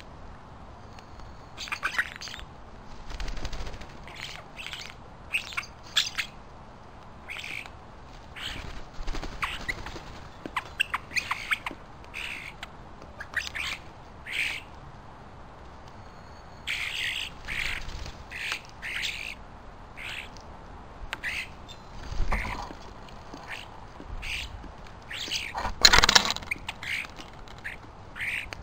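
Many short, sharp bird calls and squawks, repeated irregularly and overlapping. There are a few low thumps among them, the loudest about 26 seconds in.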